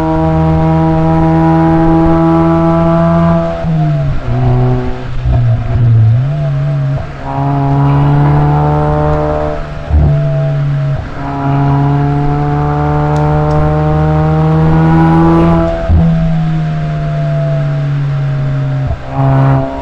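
Exhaust note of a Suzuki Swift Sport ZC33S's 1.4-litre turbocharged four-cylinder, running through a SACLAM aftermarket muffler and the stock catalytic converter, recorded from outside the car while it drives. A steady drone is held for several seconds at a time and breaks off in brief drops in pitch a few times.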